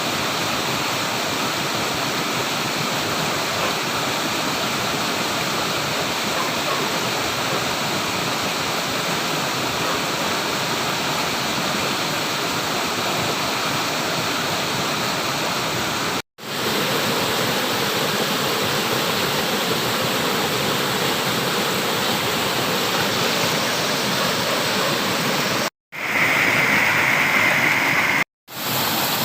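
Flowing water rushing steadily, as from a stream or small waterfall. It is broken by three abrupt moments of silence at cuts: about 16 seconds in, and twice near the end. After the second cut the water sounds a little louder and brighter.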